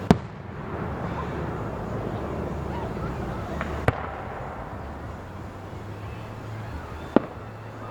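Fireworks shells bursting overhead with sharp bangs, three in all about three and a half seconds apart, over a steady low rumble.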